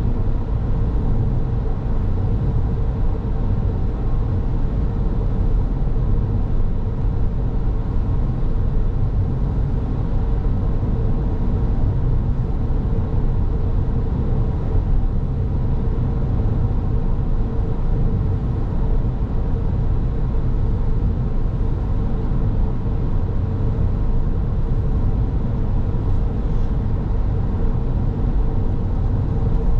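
Car driving steadily on the road: a continuous low rumble of tyres and engine with a steady hum.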